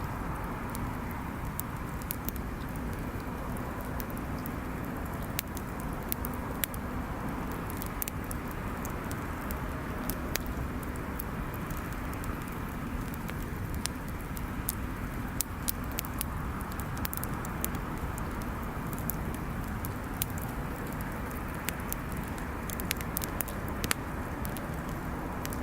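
Wood bonfire crackling, with many sharp irregular pops and snaps over a steady low rumble.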